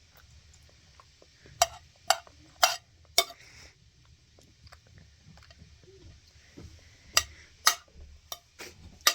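Sharp clinks of utensils against dishes: a run of four, about half a second apart, then after a pause a second run of five.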